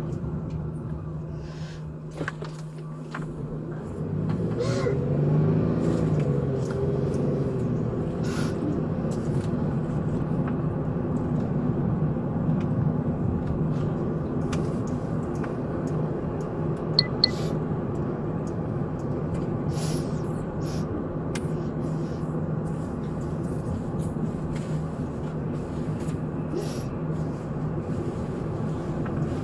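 Police patrol car's engine and road noise heard from inside the cabin while driving, growing louder about four seconds in as the engine note climbs and settles. A few sharp clicks stand out near the middle.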